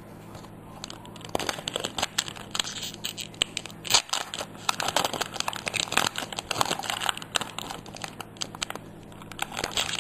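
Foil Pokémon booster pack wrapper crinkling and tearing as it is opened by hand, a dense run of crackles from about a second in, easing off a couple of seconds before the end and picking up again briefly, over a low steady hum.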